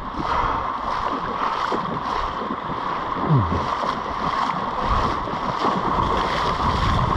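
Surf washing in the shallows at the water's edge: a steady rush of breaking waves and water. About three seconds in there is a short, low falling sound.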